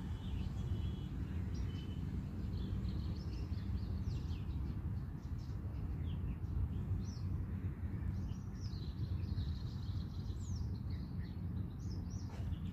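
Small birds chirping repeatedly in short, quick calls, busier in the second half, over a steady low background rumble.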